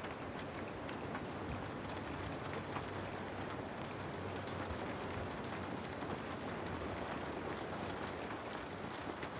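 Steady rain ambience: a dense, even hiss of rainfall with scattered faint drop ticks over a low rumble.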